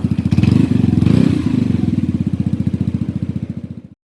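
Vespa LX 150's single-cylinder four-stroke engine running through an aftermarket Akrapovic racing exhaust, its exhaust pulses coming in an even train. It swells briefly twice in the first second or so, fades slightly, then cuts off abruptly near the end.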